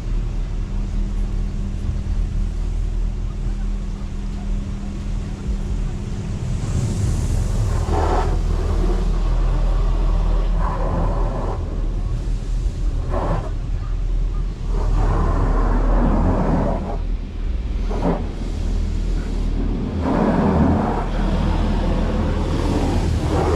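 Touchless automatic car wash heard from inside the car: a steady low machinery rumble, with a hum that stops about six seconds in, and about seven passes of high-pressure water spray hitting the car as the rotating arm sweeps around it.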